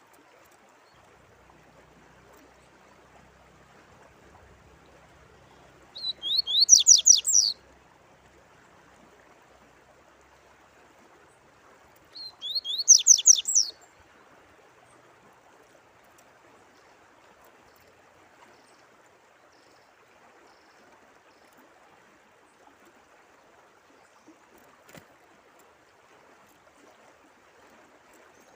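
A songbird sings two short, loud phrases of rapid sweeping notes, each about a second and a half long and about six seconds apart, over a steady sound of running water.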